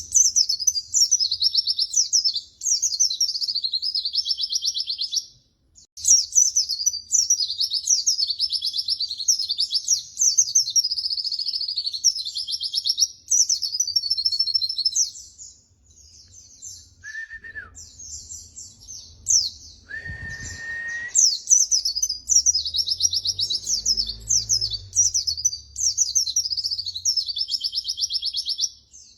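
White-eye (pleci) singing: fast, high twittering phrases strung one after another, with brief breaks about five and a half and fifteen seconds in. Short, lower, steady whistles come around seventeen and twenty seconds in.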